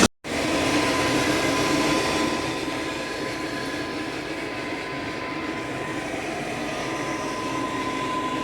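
Steady running noise of forge-workshop machinery, with a thin high whine held throughout and no hammer blows; it eases slightly about two seconds in.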